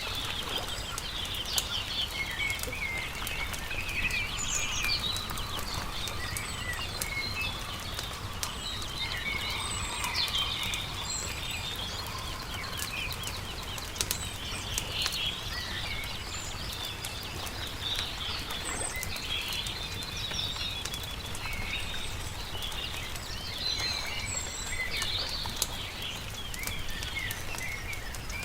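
Several small birds chirping and trilling continuously, over a campfire crackling with frequent small pops and a low steady rumble beneath.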